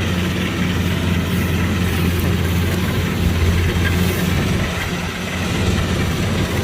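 Kubota DC-105X combine harvester running steadily: a low, even engine hum with a steady machinery hiss over it.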